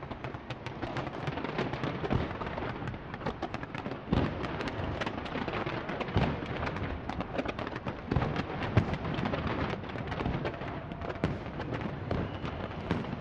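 Fireworks display going off in a dense, continuous barrage of bangs and crackles, with a few louder booms.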